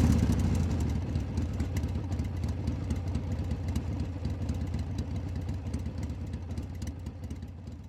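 An engine idling with an uneven low rumble that fades away steadily.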